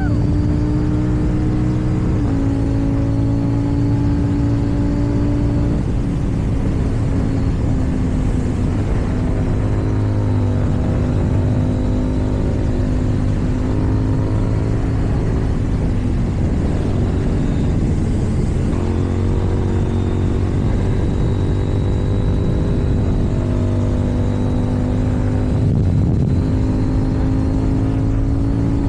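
KTM Duke 790's parallel-twin engine breathing through an Akrapovic exhaust, running steadily at riding revs, its pitch dipping and climbing slightly a few times with the throttle.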